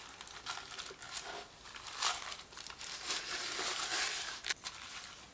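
Paper wrapped around a block of butter crinkling and rubbing as it is smeared around the inside of a cast-iron Dutch oven, an irregular rustle that grows busier in the second half, with a sharp click about four and a half seconds in.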